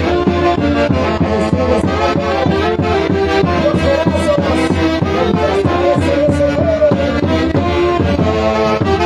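Orchestra music: reed and brass wind instruments playing a melody over a steady percussive beat.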